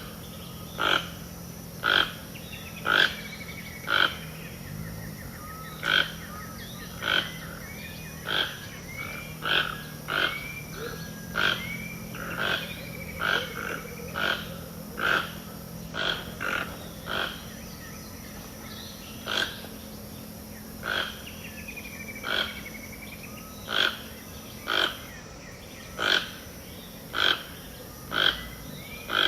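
Wild animal chorus: a short, loud call repeated about once a second, over birds singing rising and falling whistles and a low steady drone.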